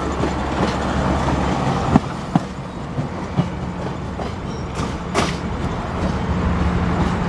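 Moving train: a steady low rumble of wheels on rail, with several sharp clicks and knocks, the loudest about 2 and 5 seconds in.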